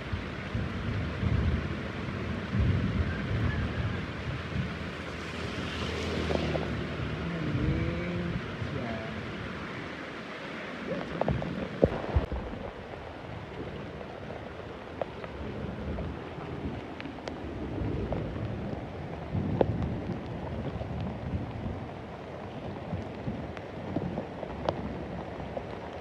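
Steady heavy rain with low rumbles of thunder swelling and fading, a deeper roll a couple of seconds in and another past the middle. A few sharp taps of drops land close by, the loudest about twelve seconds in.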